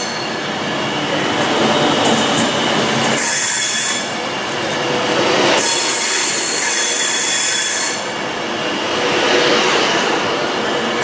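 Class 390 Pendolino electric train running past the platform carriage after carriage: a loud rush of wheel and rail noise that swells and eases every few seconds, with hissing surges and a few steady high tones.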